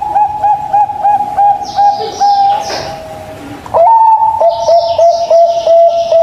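Zebra dove (perkutut) cooing: a fast run of short, clipped notes, about three a second, that stops briefly and starts a new phrase a little past halfway. Thin, high chirps of small birds sound above it.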